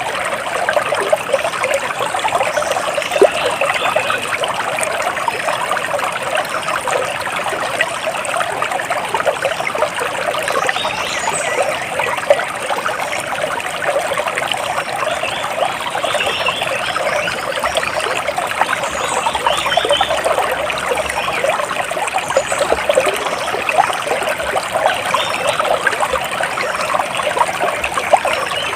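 Water splashing and trickling steadily, with faint short bird chirps now and then.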